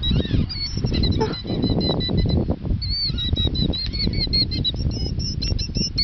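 Killdeer giving repeated shrill, high-pitched alarm calls, coming quicker toward the end, over a loud low rumbling noise.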